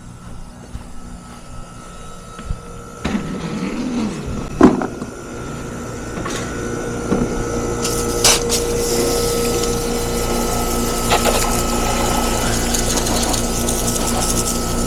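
Water from a garden hose spraying onto the outdoor unit of an HVAC system to clean its coil. It comes in about three seconds in and becomes a fuller, even hiss from about the middle, over a steady hum.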